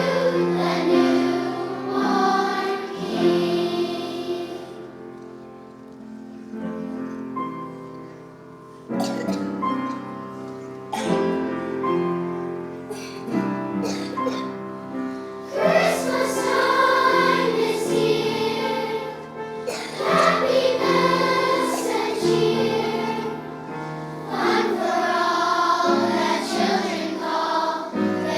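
A children's choir singing a song with accompaniment. The music softens for a few seconds about a quarter of the way in, then comes back in fuller.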